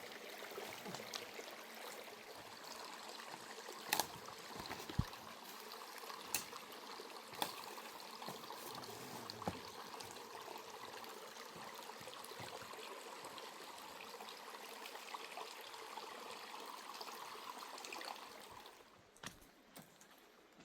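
Running water trickling steadily, with a few sharp clicks, until the water sound drops away near the end.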